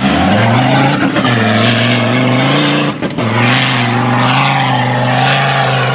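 Off-road 4x4's engine running loud under sustained throttle on a sand-dune climb, its pitch nearly steady and wavering slightly, with brief dips about one and three seconds in.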